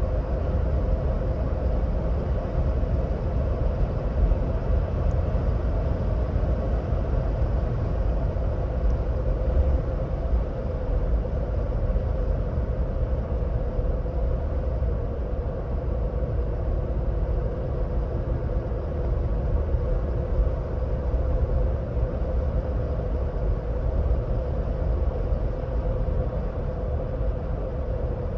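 2026 Ford Bronco Badlands cruising at highway speed: a steady deep road-and-tyre rumble with a constant droning hum from the drivetrain and tyres, unchanging throughout.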